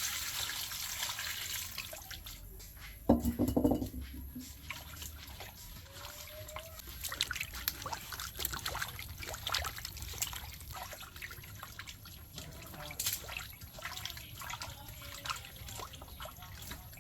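Water pouring and trickling, with scattered small clicks and knocks. A loud short thump comes about three seconds in.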